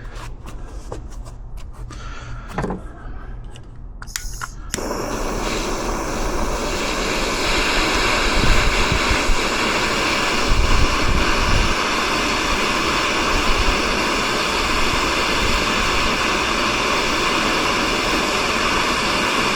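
A few faint clicks, then a torch flame lit about five seconds in, burning with a steady rushing hiss and some low rumbling swells as it heats a stuck fastener.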